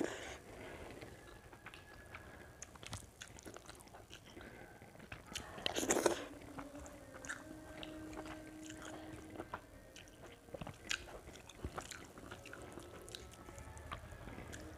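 Close-up sounds of a person eating rice and curry by hand: chewing and small wet mouth clicks, with a louder burst about six seconds in. A faint steady tone hums in the background for a few seconds after the burst.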